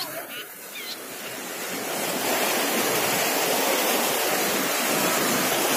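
Waterfall's steady rush of falling water, swelling louder over the first two seconds and then holding steady. A bird chirps briefly near the start.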